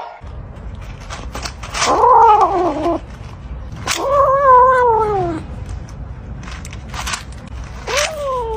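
Domestic cat yowling: three drawn-out calls, each sliding down in pitch, about two seconds in, again soon after, and a third near the end.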